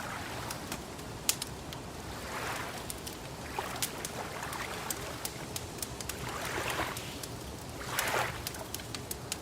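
Wood fire crackling with scattered sharp pops, over water lapping in soft swells every second or two.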